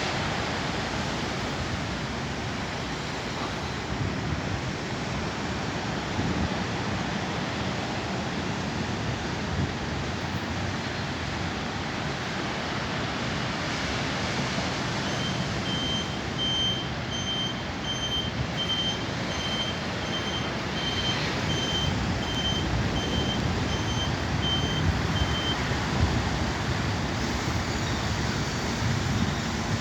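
Steady outdoor rushing noise, with a high electronic beep repeating about twice a second for some ten seconds in the middle.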